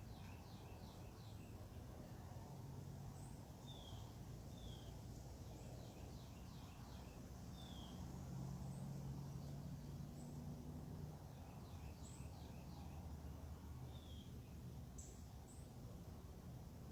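Faint backyard birdsong: quick runs of short high notes repeat every few seconds, with single down-slurred whistles between them. A steady low hum runs underneath.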